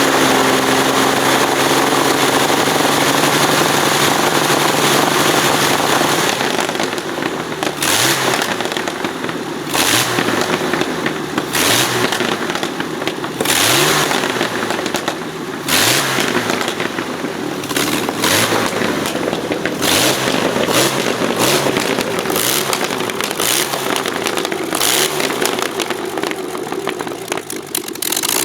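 Czechoslovak Avia M 137 air-cooled six-cylinder aircraft engine running steadily. From about six seconds in, it is blipped in repeated sharp bursts roughly every two seconds, the engine speed rising briefly with each one.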